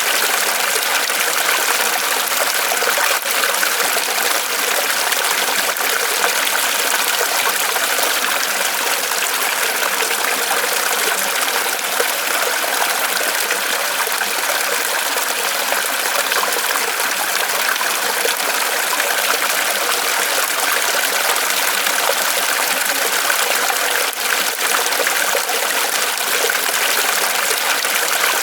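Small waterfall of water trickling and splashing steadily from a tree trunk.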